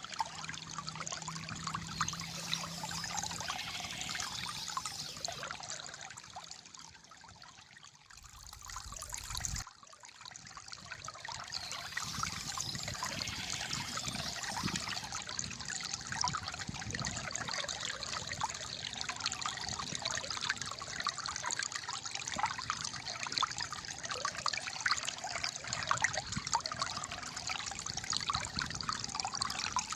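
Calm flowing water trickling and gurgling steadily, dipping in level for a few seconds about a third of the way through before coming back abruptly.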